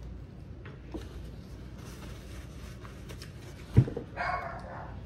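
Someone chewing a mouthful of crispy air-fried chicken with their mouth closed, faint over a steady low background hum. A single low thump comes a little before four seconds in, followed by a short muffled sound.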